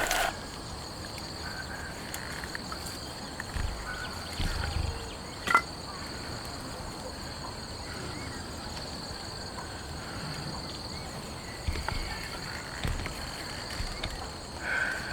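Insects chirring in a steady high-pitched drone, with a few soft low thumps and one sharp click about five and a half seconds in.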